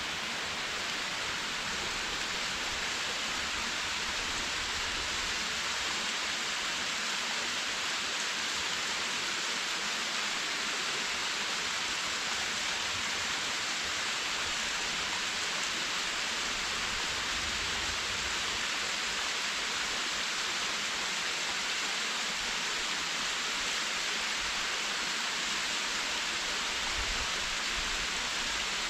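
Waterfall in a mountain ravine, the water running low: a steady, even rush of falling and splashing water that does not change.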